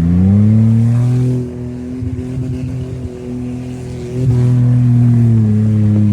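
Car engine revved hard and held at high revs. About a second and a half in it drops back to a rougher, lower note, then revs up again past four seconds and holds high.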